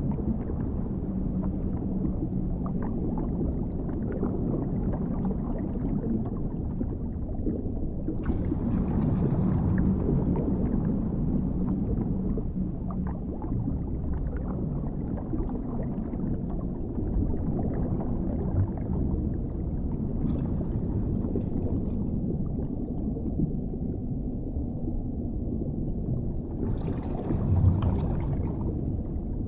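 Dark underwater ambience: a steady, deep rumbling wash, with two brighter swells, about eight seconds in and again near the end.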